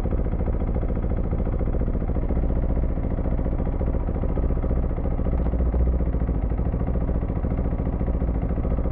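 Husqvarna Vitpilen 401's single-cylinder engine running steadily under way.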